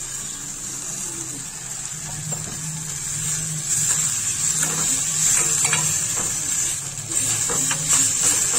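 Chopped tomatoes, onions and green chillies sizzling in a hot steel kadai, a steady frying hiss. From about the middle on, a steel spoon stirs and scrapes the mix, clinking against the pan several times.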